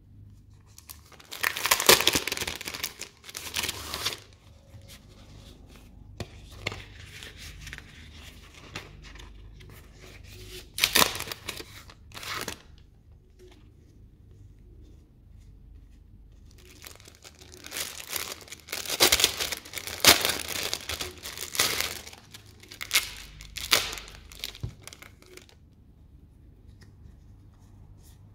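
Packaging torn open and crinkled by hand, in bouts. There is a burst of tearing and rustling about two seconds in, two short rips around eleven and twelve seconds, and a longer stretch of tearing and crinkling from about eighteen to twenty-five seconds.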